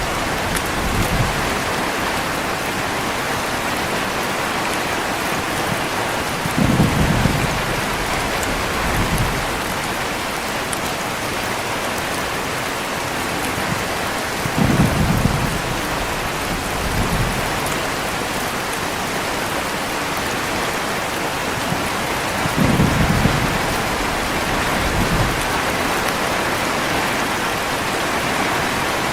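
Heavy rain falling steadily, with short low rumbles of thunder coming back at even intervals about every eight seconds, each followed by a fainter rumble about two seconds later.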